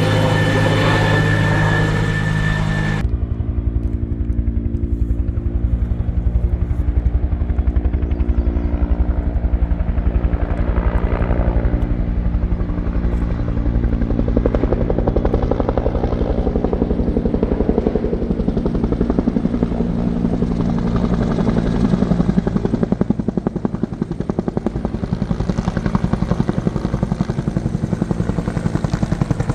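Loud helicopter with a steady, rapid chop from the rotor blades over the engine. About three seconds in, the sound changes abruptly and the higher part of it drops away.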